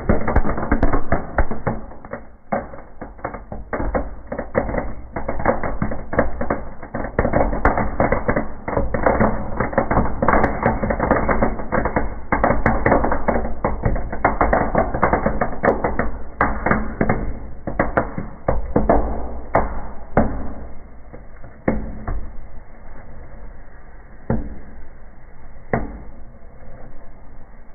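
Birch bark burning in a fireplace, crackling and popping in dense rapid clusters that thin to scattered single pops over the last several seconds, over a steady low rumble.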